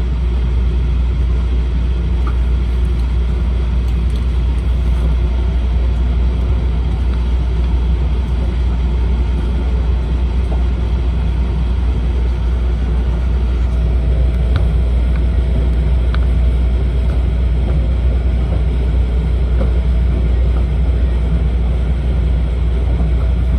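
Steady low rumble of an E4 series Shinkansen running, heard from inside the passenger cabin, with no changes.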